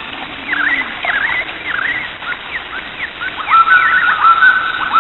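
Birds calling: a run of quick chirps that sweep up and down, then, from about three and a half seconds in, louder, longer held notes.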